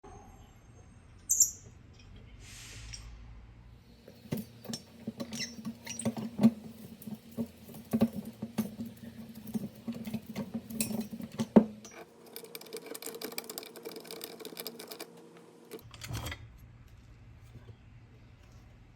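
Irregular small clicks, knocks and scrapes of metal parts of an antique coffee grinder being handled, turning into a stretch of fine rapid ticking, with a single thump about two-thirds of the way in.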